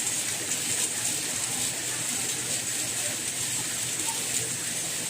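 Steady rain falling, an even hiss of drops with fine crackle and no let-up.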